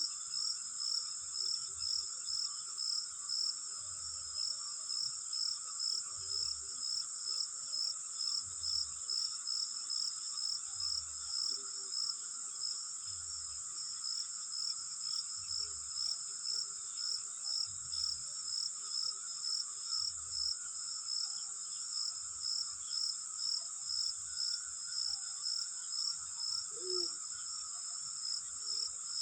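Insects chirping in a steady chorus: a continuous high-pitched buzz with a pulsing chirp about twice a second.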